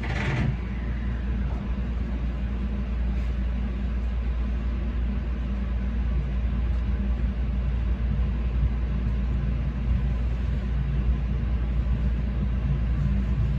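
Meitetsu 9500-series electric train running out of a station, heard from inside the cab: a steady rumble of wheels on the rails with a low motor hum. A brief sharp sound comes right at the start.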